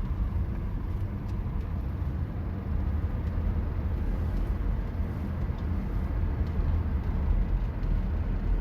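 Steady low rumble of a Toyota Tacoma pickup being driven on the road: engine and tyre noise at an even cruise.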